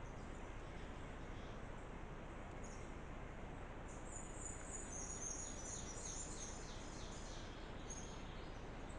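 A bird singing a run of rapid, high chirping notes, starting about four seconds in and stopping near the end, over a steady background hiss.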